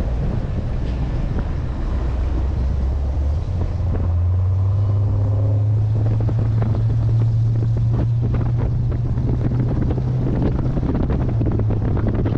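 C3 Corvette's 350 small-block Chevy V8 running under way, its low engine note stepping up in pitch and getting louder about three and a half seconds in, under heavy wind buffeting on the microphone.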